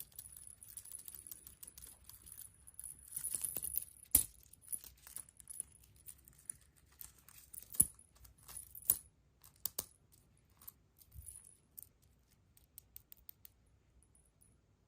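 Small hard plastic pieces handled and knocked together in a surprise-egg unboxing: a crinkly rustle about three seconds in, then a scatter of sharp clicks and clacks, the loudest near four, eight and nine seconds.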